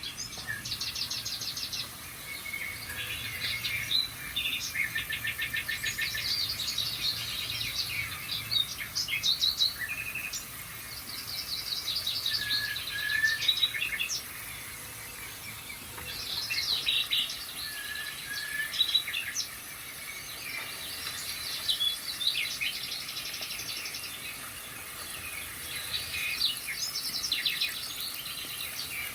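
Songbirds singing: a busy mix of chirps and fast rattling trills from several birds, coming in bouts with short lulls between them.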